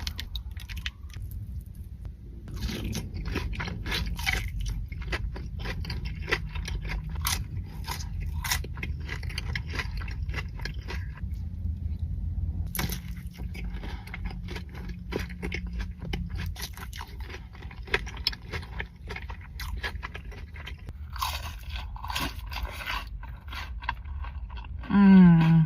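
Close-miked mukbang eating: bites into crispy fried food, crunching and wet chewing in quick, irregular strokes. Near the end comes a brief, loud tone gliding down in pitch.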